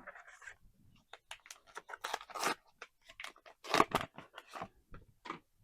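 Paper-and-foil trading-card booster pack being torn open and its wrapper crinkled: a run of sharp crackles, loudest about two and four seconds in.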